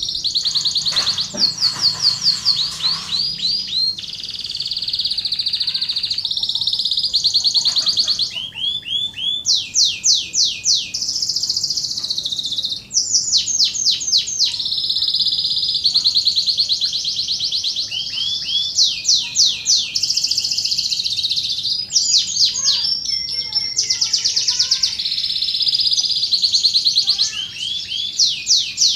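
Domestic canary singing a continuous song of rapid trills: tight runs of quick repeated sweeping notes, high-pitched and unbroken, with the phrase changing every second or two.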